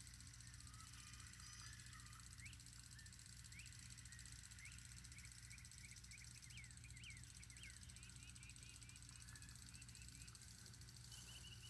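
Near silence with faint bird chirps: scattered short rising calls, then a quick run of repeated notes about eight seconds in, over a low steady hum.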